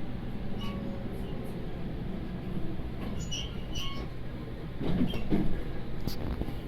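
Running sound of a JR Kyushu 811 series electric train heard inside the passenger car: a steady low hum with scattered clicks and a louder rumble about five seconds in.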